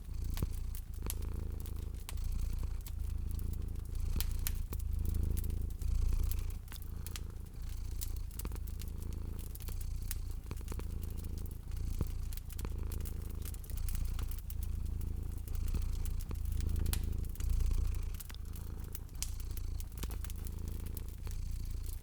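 Domestic cat purring close up, a low rumble that swells and eases about once a second with its breathing. Sharp crackles and pops of a wood fire sound throughout.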